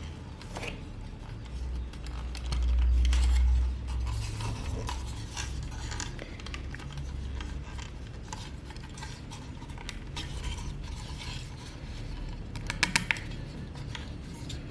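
Small alloy and plastic toy parts clicking and clattering as a transforming robot toy is handled. A low rumbling bump lasts about a second around three seconds in, and a quick run of sharp clicks comes near the end.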